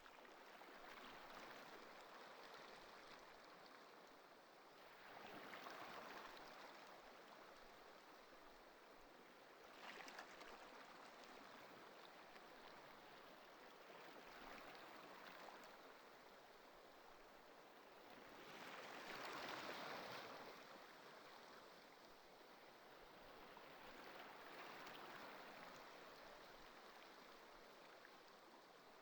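Faint ocean waves washing in, a soft hiss that swells and fades every four to five seconds, the strongest surge about two-thirds of the way through.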